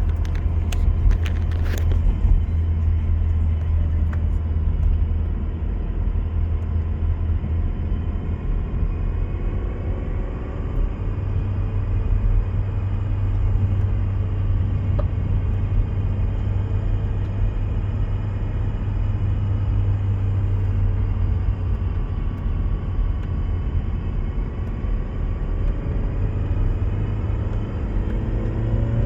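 Car driving at road speed with a steady low drone and faint whining tones that drift slowly in pitch, the drone growing stronger about a third of the way in: the noise of an M32 six-speed manual gearbox with a sound problem, the kind typical of worn M32 gearbox bearings. A few sharp clicks in the first two seconds.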